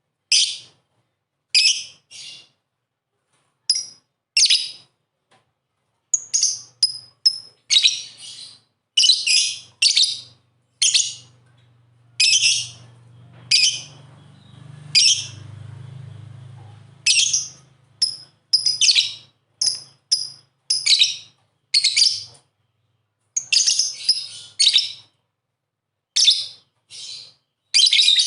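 Lovebird chirping: a run of short, shrill, high-pitched calls in irregular clusters separated by brief pauses. A faint low hum sits underneath in the middle.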